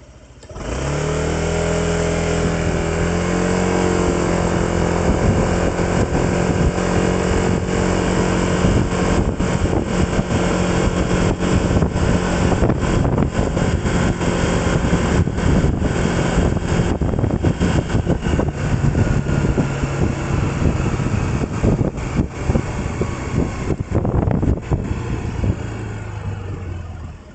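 Vehicle engine pulling away about a second in, its pitch rising as it accelerates, then running at a steady road speed with rough, gusty noise over it, easing off near the end.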